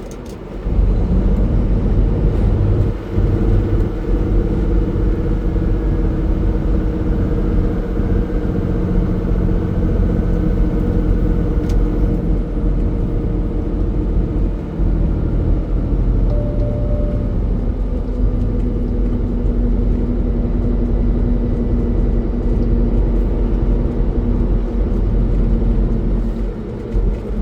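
Semi truck's diesel engine and road noise droning steadily, heard from inside the cab while driving at highway speed, the engine note shifting slightly a couple of times.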